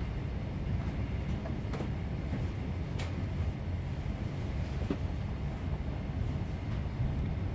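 Steady low rumble of an HST passenger coach running on the line, heard from inside the carriage, with a few faint ticks.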